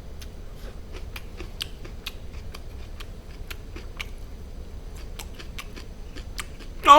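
Close-miked chewing of barbecued duck meat: scattered small wet mouth clicks and smacks, irregular and fairly quiet. Right at the very end a loud, drawn-out vocal 'mmm' of relish begins.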